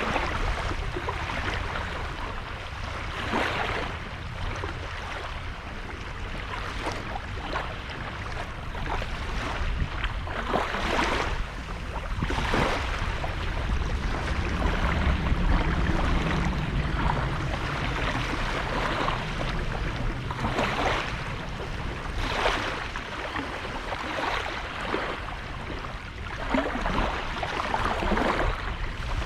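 Small sea waves washing onto a sandy beach: a steady rush of water with a brighter splashing surge every few seconds, over a low rumble.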